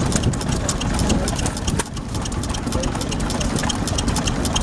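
Vintage stationary engine running steadily at idle, with a fast, regular ticking from its valve gear or ignition over the running sound.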